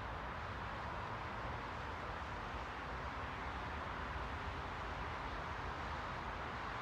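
Steady, unchanging noise, a white-noise style hiss strongest in the middle range, with a low rumble underneath.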